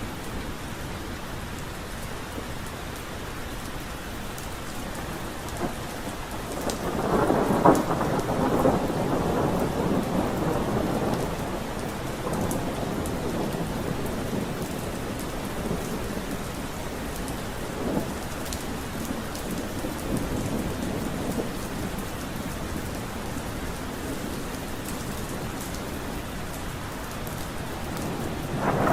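Steady rain falling, with a roll of thunder rumbling in about a quarter of the way through and dying away over several seconds; another thunder roll begins right at the end.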